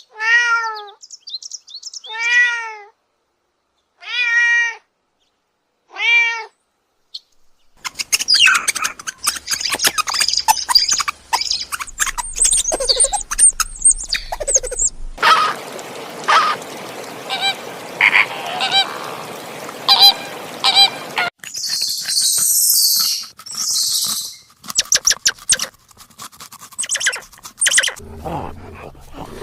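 A cat meowing four times, each meow an arched call about two seconds apart. It is followed by a busy jumble of other animal sounds with bird-like chirps and clicks.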